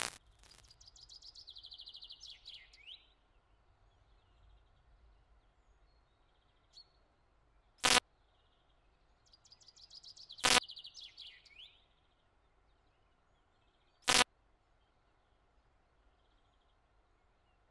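Faint bird chirping in two short bursts of rapid trills, one near the start and one about ten seconds in. Three sharp clicks a few seconds apart stand out louder than the birds.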